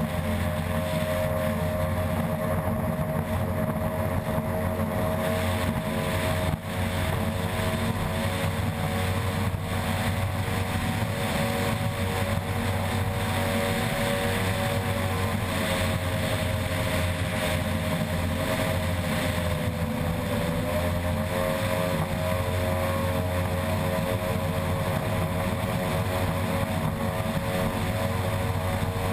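Unlimited-class outboard ski-racing boat running flat out: the engine holds a steady high note over rushing wind and water, dipping slightly in pitch about twenty seconds in.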